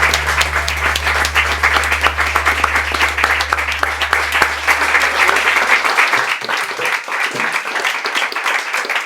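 Small audience applauding and clapping at the end of a live acoustic song, over a low held note that fades away about six seconds in.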